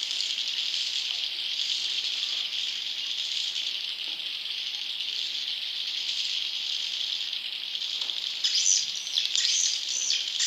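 Dense, continuous high-pitched chittering of young edible-nest swiftlets, the lure call used to draw wild swiftlets into a nesting house. About eight seconds in, louder separate chirps stand out above the chatter.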